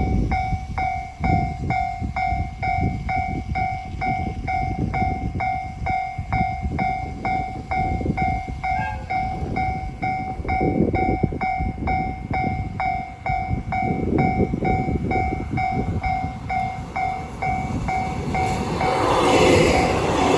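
Railway level crossing alarm ringing steadily, about two dings a second, over a low rumble. Near the end a louder train noise builds as a train arrives.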